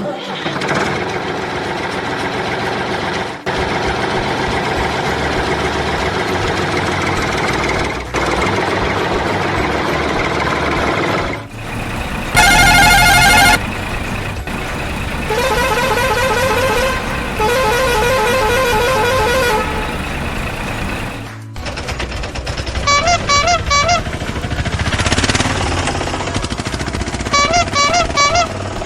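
A vehicle engine running steadily, cutting in and out abruptly several times. A loud horn blast comes about twelve seconds in, followed by warbling horn-like tones and short repeated honks near the end.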